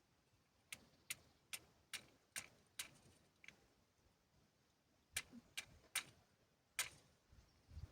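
A series of sharp clicks or taps, two or three a second, in two runs with a pause of about a second and a half between them, over a faint quiet background.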